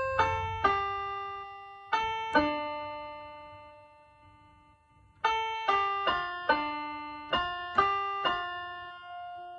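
Solo piano music: a slow phrase of single struck notes left to ring out, a pause of about two seconds, then a second phrase that ends on a fading held note.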